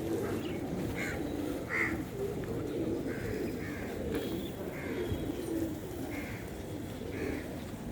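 Many pigeons cooing together in a continuous low, wavering chorus. Short, higher bird calls cut in about once a second.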